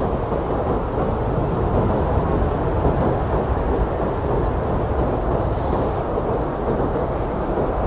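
Strong blizzard wind blowing steadily as a deep, low rumble, with no gusts standing out.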